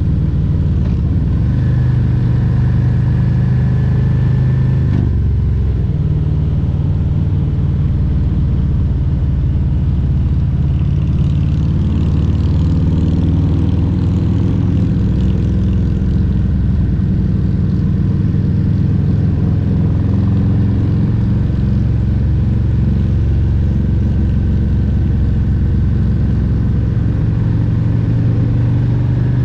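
Harley-Davidson Milwaukee-Eight 114 V-twin engine running under way at road speed, a steady loud exhaust note whose pitch shifts about five seconds in and wavers with throttle later on.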